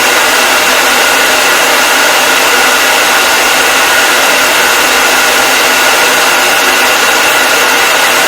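Hair dryer running continuously at a steady speed: an even rushing hiss of air with a faint steady whine from the motor and fan, unchanging throughout.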